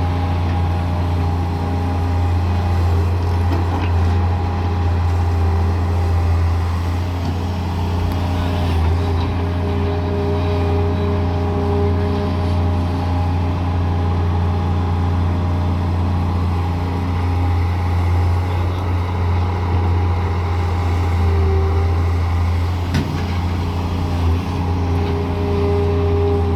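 Heavy diesel engine of a Daewoo Solar 170W-III wheeled excavator running steadily with a deep drone, with a few faint knocks.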